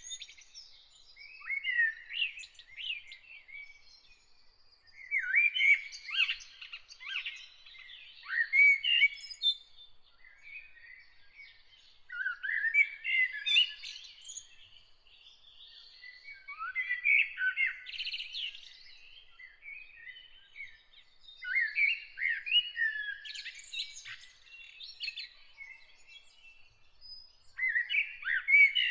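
Songbird singing complex, chirping phrases a few seconds long, repeated about every four to five seconds with short pauses between them, over a faint steady high thin tone.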